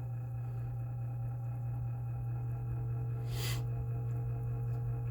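Lasko 3733 box fan motor running on medium from a cold start, a steady hum with several steady tones above it, slowly gaining a little in level as its cold-stiffened bearings start to break free. A short rush of noise cuts across it about three and a half seconds in.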